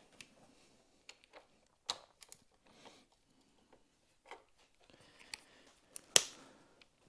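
Scattered metal clicks and knocks of hand tools and parts handled while a dirt bike's swing arm is being removed, with one loud sharp knock about six seconds in.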